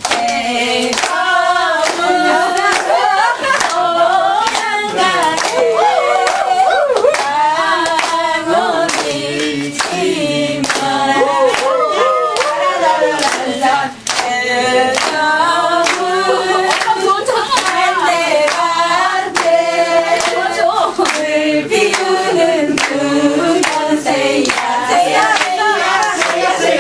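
A small group of people singing together while clapping their hands along to the beat in a steady rhythm.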